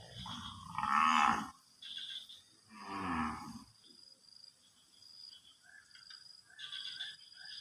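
A cow mooing twice, the first call about a second in, the second a shorter one about three seconds in.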